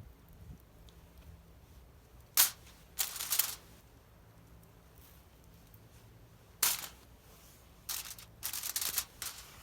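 Food-preparation handling sounds: two sharp clicks, one about two and a half seconds in and one near seven seconds, and short rustling bursts after each, as bacon and wrapping are handled.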